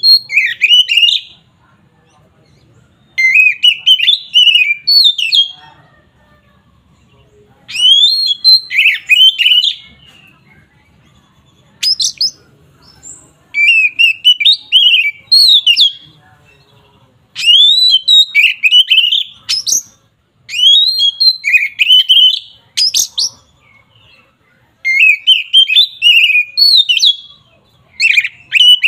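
Oriental magpie-robin (kacer) singing loud phrases of quick whistled notes that glide up and down, each phrase about two seconds long and repeated every three to four seconds.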